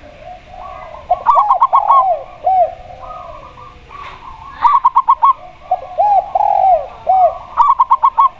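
A spotted dove and a zebra dove cooing together. A quick run of about five short, sharp notes comes three times, about every three seconds. Between the runs, twice, comes a lower, rounder phrase of a few arched coos with a longer one in the middle.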